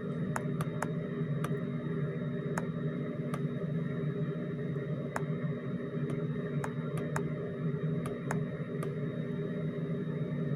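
Steady low background hum with faint, irregular clicks scattered through it.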